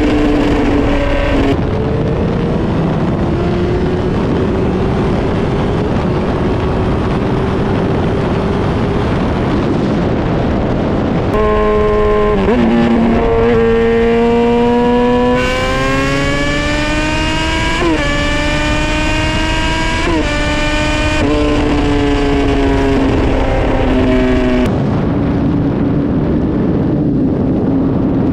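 2007 Suzuki GSX-R1000 inline-four running hard through a Yoshimura exhaust with the dB killer removed, on the move with wind noise. The engine note climbs under acceleration and drops sharply at each gear change, several times over.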